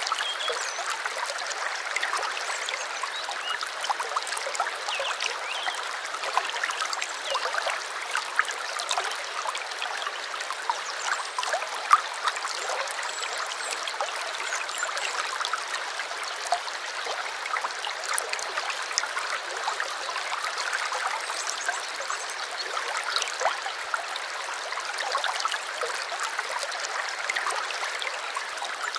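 A small stream babbling and trickling over stones, a steady rush of water full of small quick splashes, with one sharper splash about twelve seconds in.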